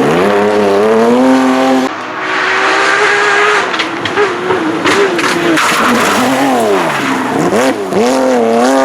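Porsche 911 GT3 rally car's flat-six engine at full throttle, pitch climbing hard at the start, then dropping and rising again twice as it lifts and downshifts before accelerating once more near the end.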